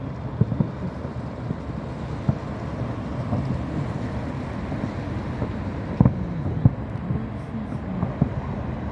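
Fireworks bursting, heard as scattered low thumps and pops, the strongest pair about two-thirds of the way through, over a steady low rumble of wind on the microphone.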